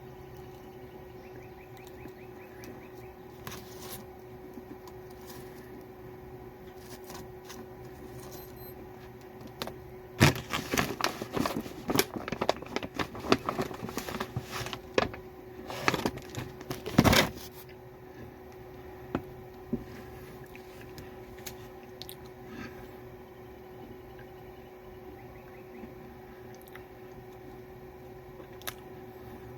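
Crinkling and crackling of plastic cookie packaging being handled, in a dense run of sharp crackles starting about ten seconds in and lasting several seconds, over a steady low hum.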